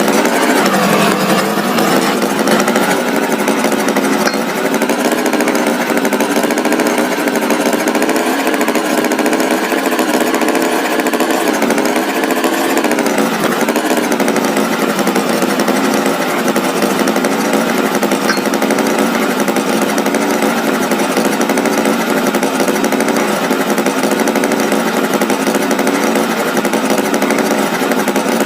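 Tractor engine running steadily, its pitch wavering slightly, with a short dip in pitch about halfway through.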